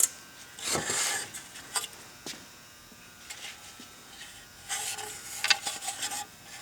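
Small chainsaw parts handled by hand: a sharp click right at the start, then light scraping, rubbing and scattered clicks as the kill-switch linkage of a Homelite 150 is worked free of the saw.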